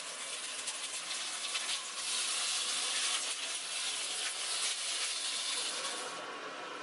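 Pollock roe frying in an oiled cast-iron grill pan: a steady sizzle with fine crackling as the pieces are turned with tongs. About six seconds in, the sizzle gives way to a quieter, even sound of water being poured into a pot of soaked rice.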